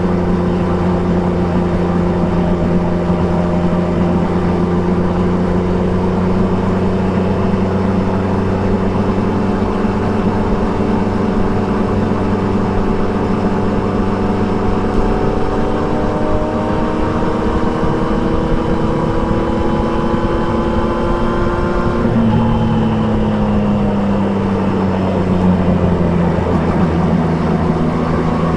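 Triumph Trident 660's three-cylinder engine under way on the road, its note climbing slowly as the bike gathers speed. About 22 seconds in, the note changes abruptly and then falls away over a few seconds.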